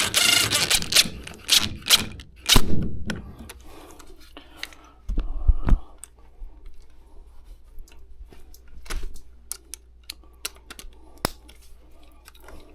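Irregular sharp clicks and knocks of hand tools and metal parts being handled, with a rustling clatter in the first second and a heavy low thump about five seconds in.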